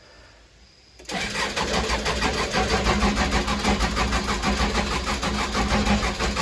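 Case 580 Super L backhoe's diesel engine being cranked by its starter, starting abruptly about a second in with a fast, even chugging, without catching. The engine does not fire because the fuel system is still not primed after it ran out of fuel.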